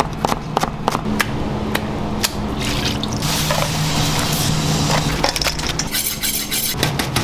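Fried-chicken kitchen sounds: a quick run of sharp chopping knocks on a wooden board, then hissing from about three seconds in, over a steady low hum.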